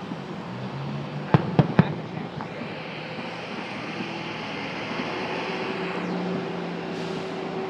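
Three sharp firework pops in quick succession about a second and a half in, followed by a steady hiss.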